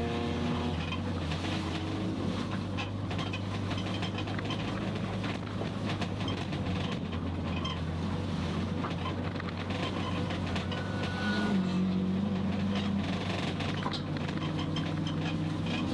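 Toyota Starlet Glanza race car heard from inside the cabin: the engine is running at fairly steady revs under a haze of road noise and cabin rattles. The engine note falls away at the start and begins to climb again near the end.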